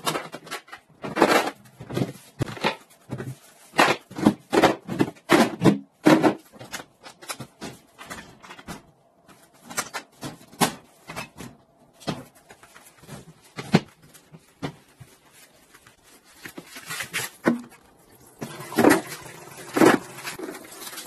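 Irregular knocks and clatter from handling a used refrigerator, its drawers, shelves and door being moved and pulled about, with a quieter stretch in the middle.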